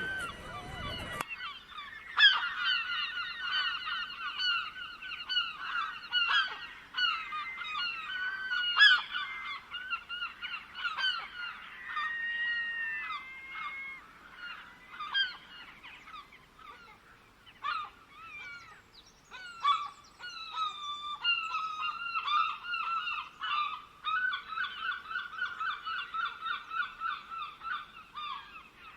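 Many birds calling together in fast runs of short, repeated pitched notes, overlapping throughout. A brief noisier sound cuts off about a second in.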